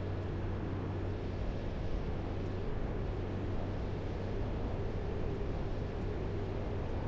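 Light aircraft's engine and propeller running steadily at cruise, a constant low drone with a rushing wind-like hiss over it.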